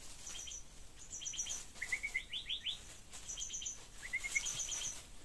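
Bird song: short runs of quick, high chipping notes repeated about every second, with a few quick rising notes in between.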